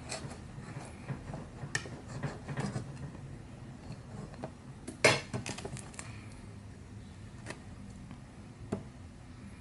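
Knife clinking and scraping on a plate while a sugar brioche is cut in half: scattered small clicks and knocks, the loudest about five seconds in.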